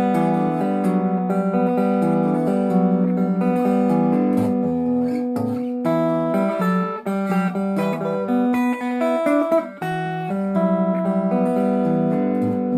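Clean electric guitar on the neck pickup of a semi-hollow replica Gibson ES Les Paul, played through an amp in chords and picked notes. The tone is softer, deeper and bassier, and a little glassy. There is a brief break in the playing about ten seconds in.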